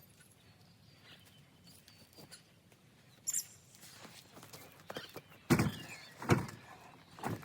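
Heavy rounds of cut firewood being handled and loaded: a knock about three seconds in, then three heavy thuds in the second half as logs are dropped into place.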